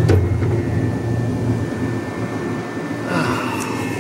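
Passenger train rolling along the track, heard from inside the car: a steady low rumble with a few held hums, and a brighter rushing hiss that joins about three seconds in.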